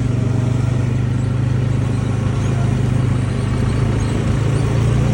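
Tractor engine running steadily at a constant speed, a low even hum with a fast regular pulse.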